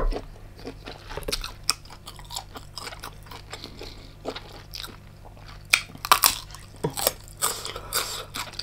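Close-miked chewing and biting on giant tiger prawn: irregular crunches and wet mouth clicks, with a cluster of louder bites in the second half.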